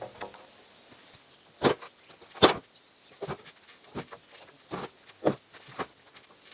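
A series of sharp, irregularly spaced knocks, about seven over four seconds, the loudest about two and a half seconds in.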